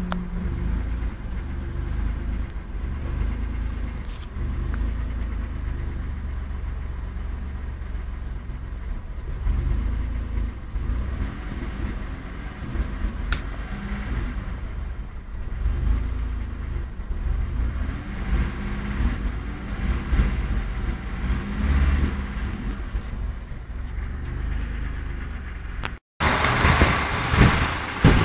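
1994 Isuzu Trooper engine idling unevenly with a misfire, its running wavering and stumbling irregularly. Near the end the sound drops out for a moment and comes back louder.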